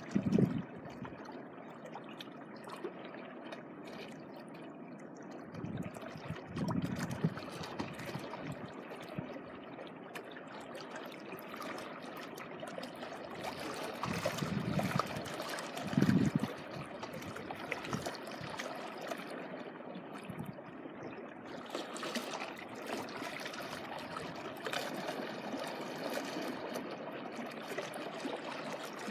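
Small sea waves washing onto the shore and draining back, with a steady trickling of water and a few louder low surges.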